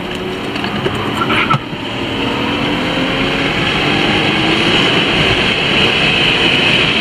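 Race car engine heard from inside the cabin, accelerating hard along with road and wind rush. After a brief break about a second and a half in, like a gear change, its pitch rises steadily.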